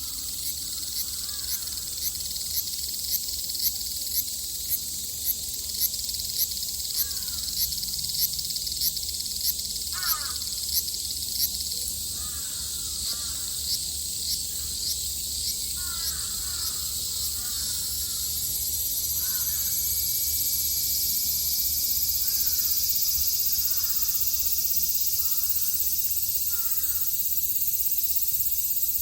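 A chorus of Japanese summer cicadas: a high, shrill song that pulses about twice a second for the first dozen seconds, then settles from about 18 s into a steady, louder buzz. Short harsh bird calls come in small groups over it.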